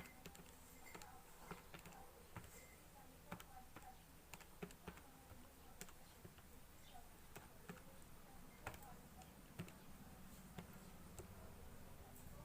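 Faint, irregular clicking of keys being pressed one at a time, as a calculation is keyed in.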